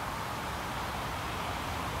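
Electric passenger train approaching: a steady rushing rumble that grows slowly louder.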